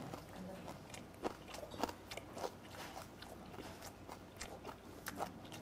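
Close-miked chewing of a mouthful of samhap, fermented skate with boiled pork and aged kimchi, with irregular crunching clicks, two of them louder in the first two seconds.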